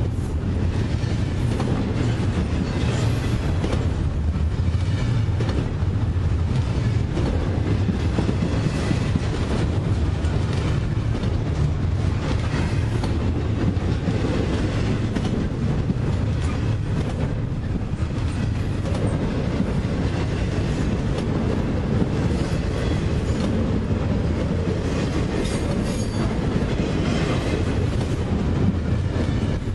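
Double-stack intermodal freight train's container well cars rolling past close by: a steady rumble with the clatter of steel wheels on the rails.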